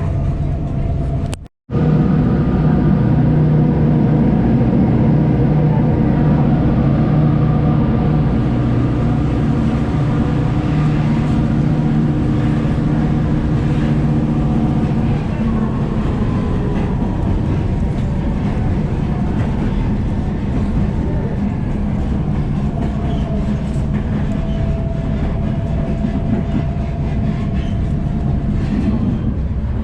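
A passenger train running, heard from aboard: a steady rumble of the cars on the rails with a low hum that eases about halfway through. The sound drops out for a split second near the start.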